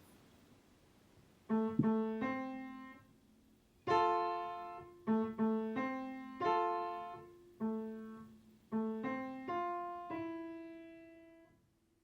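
Slow piano music: single notes and chords struck one after another, each left to ring and fade, starting about a second and a half in.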